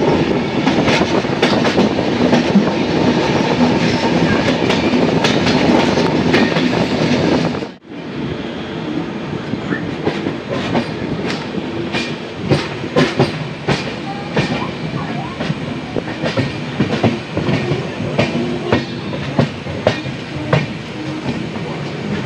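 Passenger train coach running along the track, a steady rumble of wheels on rail with repeated clickety-clack as the wheels cross the rail joints. About eight seconds in the sound briefly drops out, then continues a little quieter with sharper, spaced clacks.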